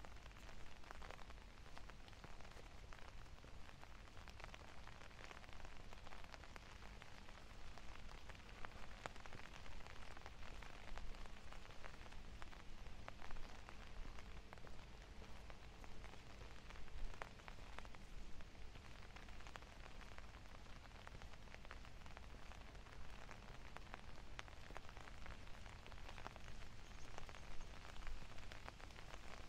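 Steady rain falling, with many single drops ticking close by.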